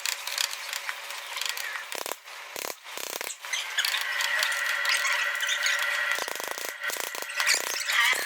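Mechanical clicking and scraping in irregular bursts, with a steady high tone through the second half.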